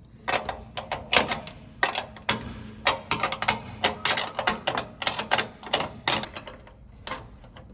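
Socket ratchet wrench clicking in quick irregular runs of sharp clicks while loosening a tailgate latch bolt.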